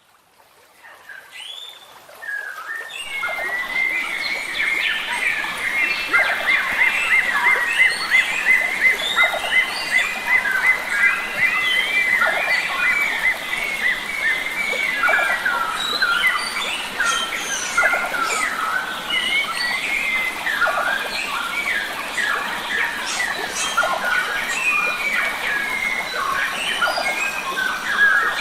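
A dense chorus of forest birds singing and calling, with many overlapping chirps, whistles and rapid trills. It fades in over the first couple of seconds.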